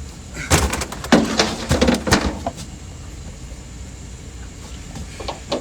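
A quick run of sharp knocks and clatter over about two seconds, then only a steady low rumble.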